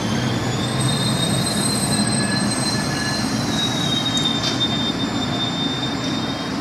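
Amtrak Cascades passenger cars rolling slowly past as the train brakes for its stop: a steady low rumble of the wheels on the rails with thin, high-pitched squeals that shift a little in pitch.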